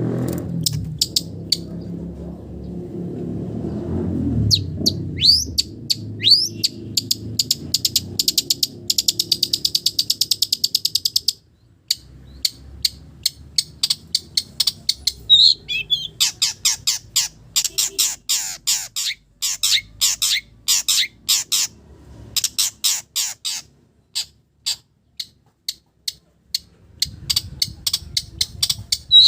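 Long-tailed shrike (cendet) singing a fast, chattering song of sharp repeated notes and a buzzy trill, laced with mimicked calls of village birds. A low rumble runs under the song for the first few seconds and returns near the end.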